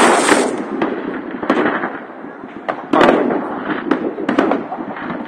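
Aerial fireworks bursting: a loud boom right at the start and another about three seconds in, with sharp cracks and pops scattered between.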